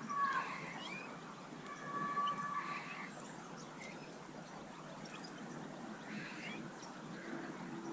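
Small garden birds calling: a few quick chirps at the start, a held whistled note about two seconds in, then scattered faint chirps over a steady background hiss.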